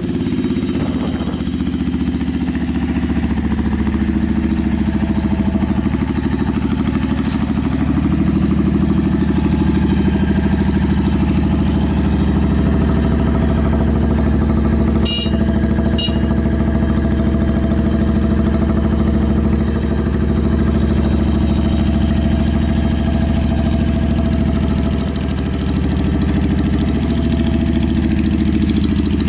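Yamaha Drag Star 400's V-twin idling steadily through short two-outlet trumpet exhaust pipes, running without abnormal noise. Two brief clicks come about halfway through.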